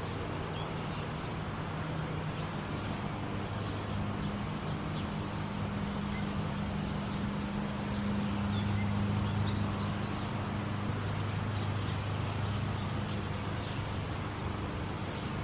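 A low steady droning hum of a few held tones that swell and shift, with faint scattered bird chirps above it.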